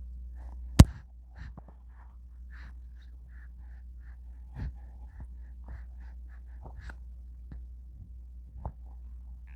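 An infant's soft breathing and small, short vocal sounds, with a sharp click about a second in over a steady low hum.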